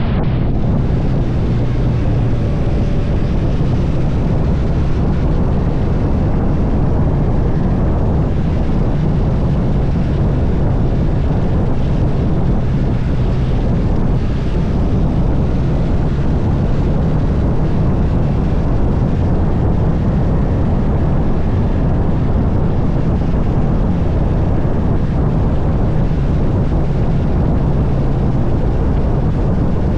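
Motorcycle engine running at a steady speed under heavy wind rush on the microphone.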